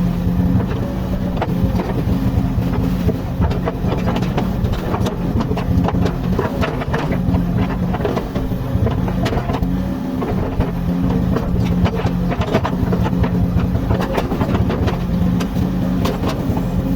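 Komatsu hydraulic excavator's diesel engine running steadily under working load, swelling slightly now and then, with many irregular knocks and clanks over it.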